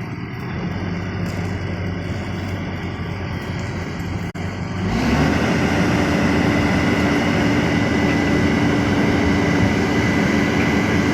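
A workshop machine running steadily. After a brief break about four seconds in, it comes back louder with a steady whine.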